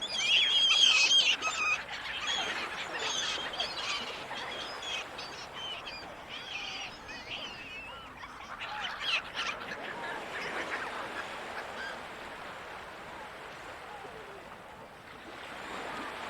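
Seagulls calling in a flurry of repeated squawks, loudest in the first couple of seconds and again about ten seconds in, over a steady background rush.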